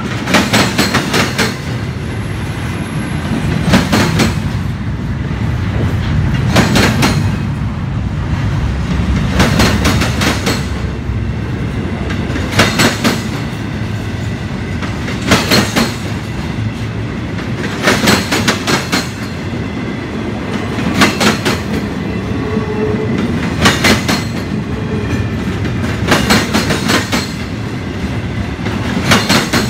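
Empty double-stack intermodal cars of a Union Pacific freight train rolling past over a steady rumble. Their wheels clack over the rail joints in clusters about every three seconds.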